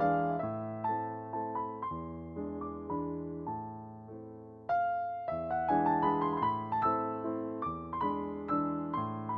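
Background piano music: a gentle melody of single struck notes, thinning out for a moment just after the halfway point and coming back in fuller.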